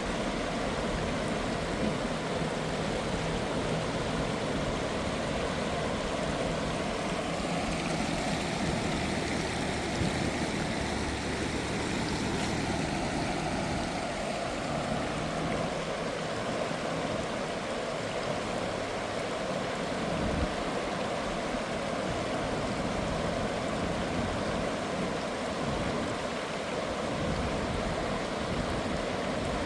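Steady rushing of a river in flood, an even roar of water.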